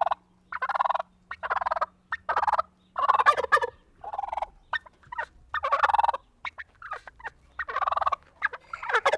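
A bird calling over and over in short, loud bursts, roughly one a second with irregular gaps.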